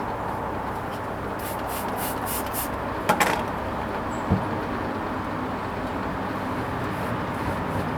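Hoover Vision HVP16 washing machine running a Silks 30 wash: a steady mechanical hum, with a few short hissing strokes, a sharp knock about three seconds in and a low thud a second later.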